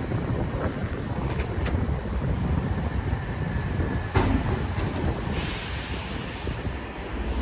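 Steady, shifting low rumble of city street noise, with a sharp knock about four seconds in and a brief hiss lasting about a second just after.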